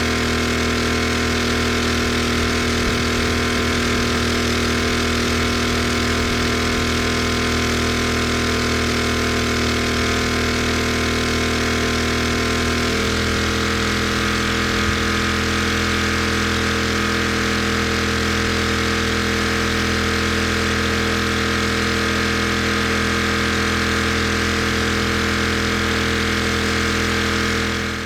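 Gas-engine pressure washer running steadily, its engine pitch shifting slightly about halfway through as the load changes.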